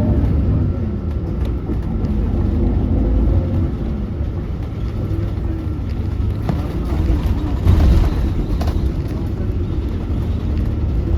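2019 Hyundai Universe Elegance CNG coach engine running with a steady low rumble, dipping a little a few seconds in and swelling louder with added noise partway through.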